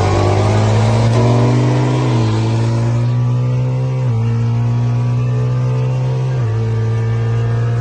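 Car engine at full throttle in a street race, accelerating hard from a launch and pulling up through the gears, its pitch climbing steadily in each gear and dropping at upshifts about two, four and six and a half seconds in.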